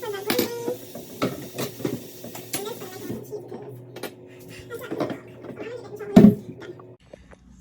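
Kitchen clatter: pots, dishes and utensils clinking and knocking irregularly, with a louder knock about six seconds in.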